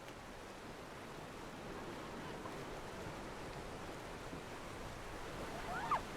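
Seafront ambience: a steady wash of sea surf. Near the end comes one brief, sharp, high-pitched squeak.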